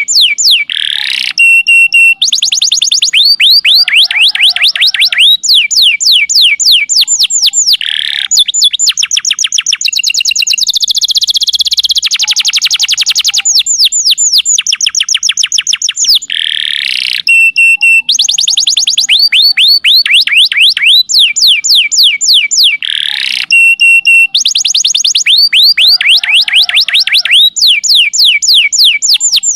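Domestic canary singing a long, loud, unbroken song of fast, high trills, each phrase a rapid run of repeated sweeping notes that changes to a new phrase every second or two.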